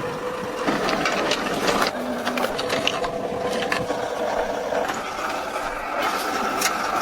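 A small mechanism running with a steady whir, overlaid by many irregular clicks and rattles; the hum shifts higher about five seconds in.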